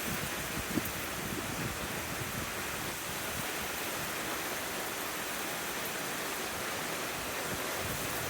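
Steady hiss of heavy hurricane rain and wind, even and unbroken.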